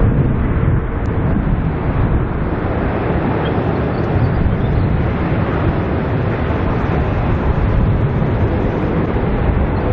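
Boeing 787 Dreamliner's twin jet engines during its landing, a loud, steady rush of noise with no clear rise or fall in pitch.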